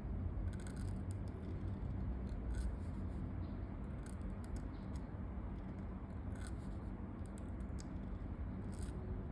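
Pen nib scratching across paper in short, irregular strokes, over a steady low background rumble.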